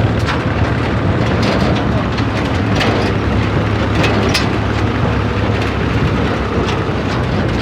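Tractor engine running steadily with a strong low hum, with scattered clicks and rattles over it.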